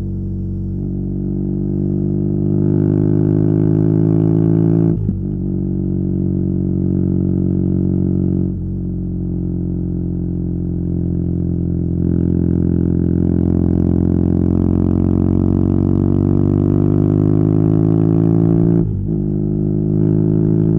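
BMW R nineT's boxer twin through a Competition Werkes slip-on exhaust, under way and pulling: its pitch climbs slowly, broken three times by short dips at gear changes, about five seconds in, about eight and a half seconds in, and near the end.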